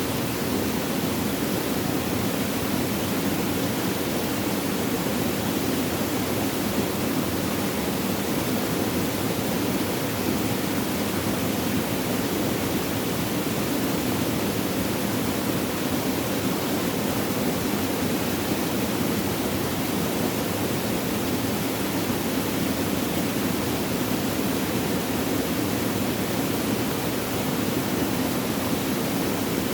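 Flowing, babbling water, a steady even rush with no breaks or changes.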